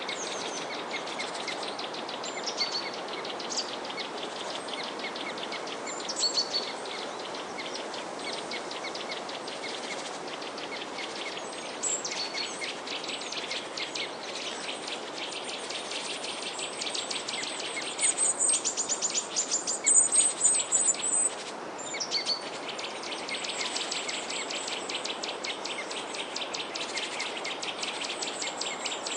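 Small songbirds chirping and trilling in rapid runs of short notes over a steady background hiss. The loudest, fastest chirping comes about two-thirds of the way through.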